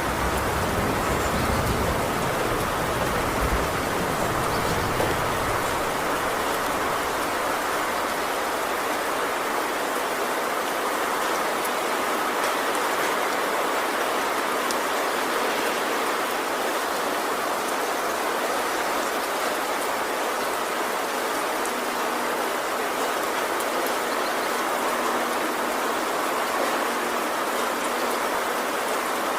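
Heavy rain falling steadily on a tin roof, with the tail of a low thunder rumble fading out in the first few seconds.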